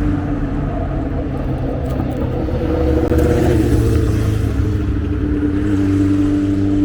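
A motor vehicle running close by: a steady engine hum over a low rumble, swelling a little partway through.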